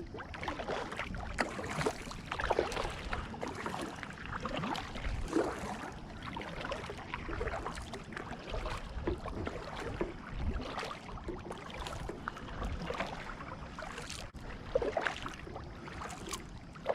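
Water splashing and gurgling against the hull of a kayak, in short, uneven splashes.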